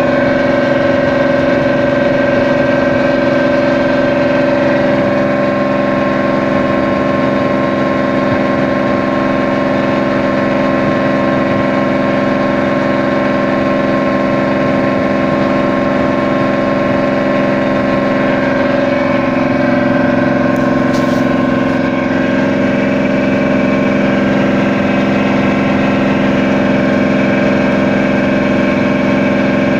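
A passenger boat's engine running at a steady, unchanging pitch: a constant loud drone.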